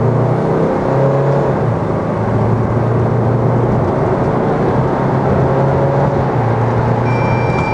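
Hyundai ix35's 2.0 CRDi four-cylinder turbodiesel accelerating hard through its automatic gearbox, the engine note climbing in each gear and breaking briefly at the gear changes. A thin steady high tone comes in near the end.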